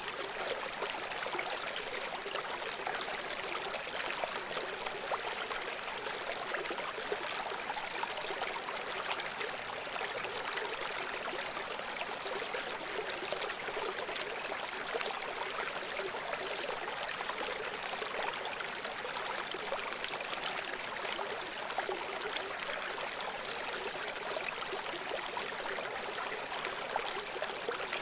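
A running stream: water flowing and splashing over rocks in a steady, even rush with fine trickling and burbling.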